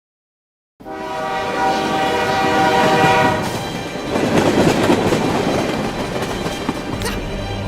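A train horn sounding for about two and a half seconds, starting about a second in, followed by the steady noise of a train running on the rails.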